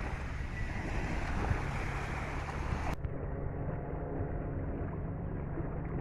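Wind buffeting the microphone over water noise on an inflatable boat. About halfway through the sound cuts abruptly to a steady low hum from an electric trolling motor running, with the wind and water still underneath.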